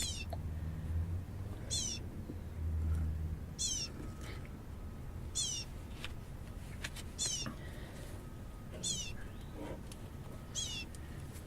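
Baby bird calling: a high, downward-sliding chirp repeated about every two seconds, typical of a hungry chick begging for food.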